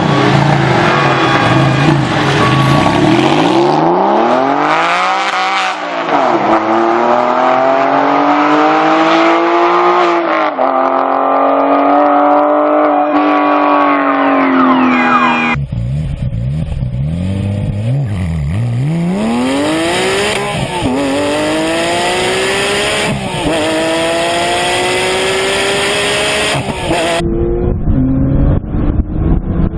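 Porsche engine accelerating hard through the gears: the engine note climbs steadily in pitch, drops at each upshift, then climbs again. The sound changes abruptly twice, about halfway through and again near the end, where one acceleration run cuts to another.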